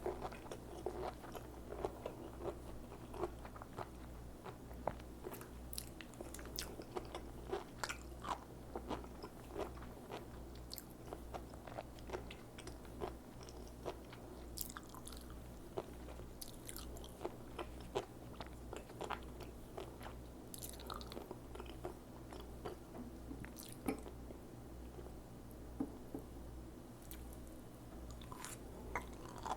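Sea grapes being chewed close to the microphone: crisp crunching with many small sharp clicks as the little seaweed beads pop in the mouth, over a low steady hum.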